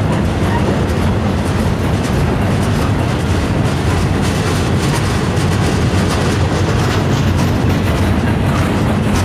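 Freight train cars rolling past close by, a steady heavy rumble of steel wheels on rail with light clicking over the joints.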